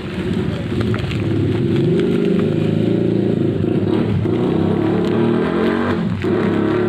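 A motor vehicle engine running steadily, its low hum wavering slightly in pitch, with a few light clicks.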